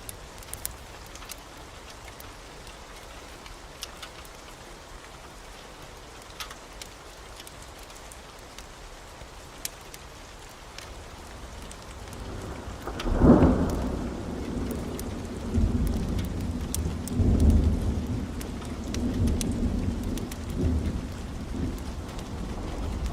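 Steady rain hiss with occasional sharp ticks. About thirteen seconds in, a loud peal of thunder breaks and rolls on as a low rumble that swells several more times.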